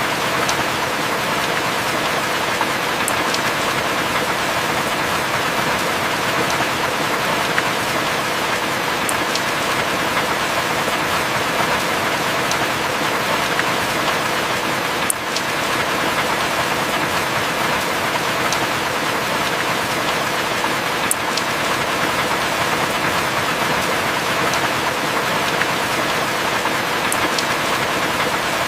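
Heavy rain falling steadily as an even hiss, with an occasional sharp drip tick every few seconds and no thunder.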